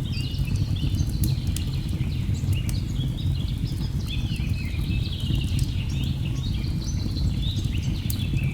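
Steady low rush of a waterfall under many birds chirping in quick repeated notes, with sharp crackles of a burning wood fire scattered through.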